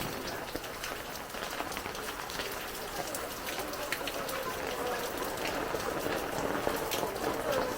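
Heavy rain falling steadily, with many separate drops ticking on hard surfaces close by.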